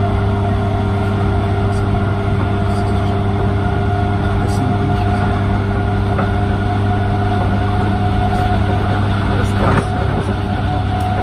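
Inside the carriage of an electric passenger train running at steady speed: a continuous rumble of the wheels on the track with a steady hum from the traction motors. A single brief knock is heard about ten seconds in.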